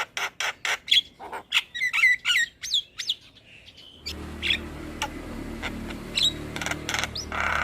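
Javan myna chattering and singing: a fast run of sharp harsh notes and whistled glides. A short lull comes about three seconds in; after it the calls are sparser over a steady low hum.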